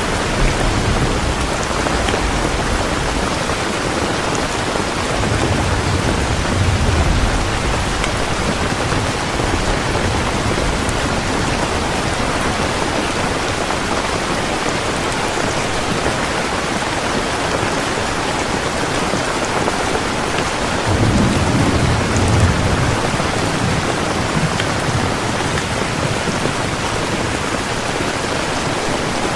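Heavy rain falling steadily, with low rolls of thunder twice, the second and stronger about two-thirds of the way through.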